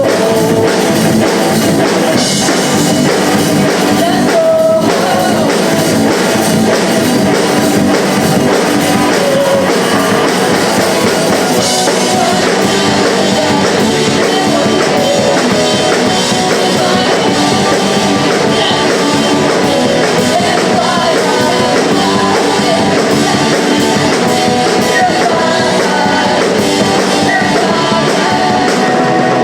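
Live punk rock band playing a song: electric guitars and drum kit with singing, loud and continuous.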